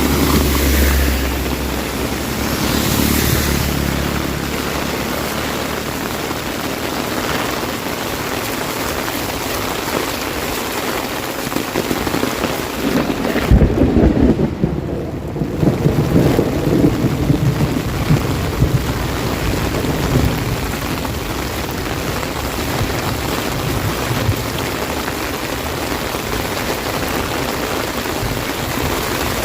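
Heavy rain drumming on an umbrella, a steady hiss. A low rumble comes in near the start, and a deeper, louder one comes in about halfway through.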